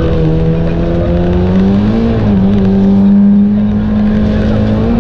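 Engine of a front-wheel-drive Renault Clio V1600 rally car pulling hard under way, heard inside the cabin; its note climbs about two seconds in, then holds steady at the higher pitch over constant road noise.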